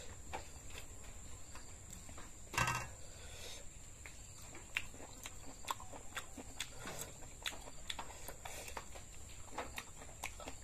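Close-miked chewing and lip-smacking of someone eating raw beef: a string of small wet mouth clicks, with one louder clack about two and a half seconds in.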